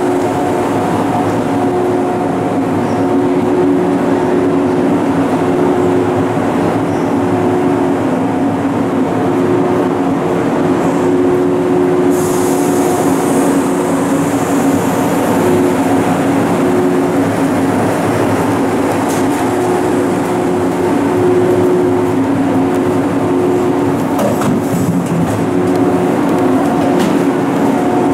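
Izukyu 2100 series 'Resort 21' electric train giving a steady drone with a constant two-pitch hum. A brief hiss comes about twelve seconds in.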